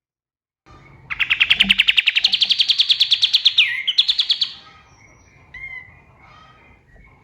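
Kapas tembak songbird singing a loud, rapid trill of evenly repeated sharp notes that begins about a second in and runs for roughly three seconds. The trill drops in pitch near the end, then breaks into a short second burst, and softer scattered chirps follow.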